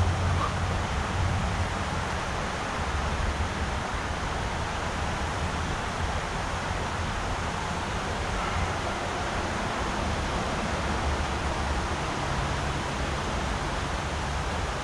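Steady rush of river water, an even hiss with a low rumble underneath.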